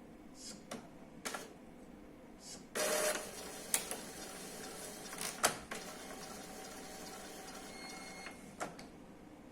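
Epson L3150 inkjet printer's paper feed and carriage mechanism running in its start-up cycle: several clicks, a louder stretch of motor and paper noise about three seconds in, then steadier mechanism noise with more sharp clicks. This is the printer releasing the sheet that had been jammed inside.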